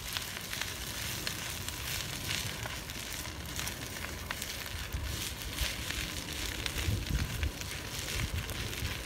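Campfire crackling: many sharp pops and snaps over a steady hiss.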